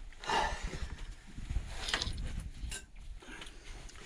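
Hands working on the scooter's air filter box: a short scraping rustle, then handling knocks and a couple of light clicks of plastic and metal parts.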